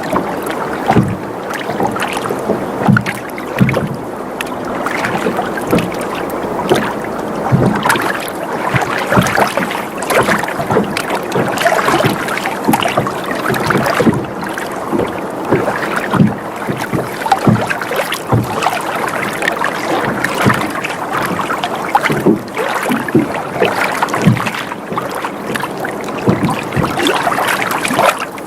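Water sloshing and lapping against a boat's hull as it rocks: a steady wash broken by frequent short slaps of water.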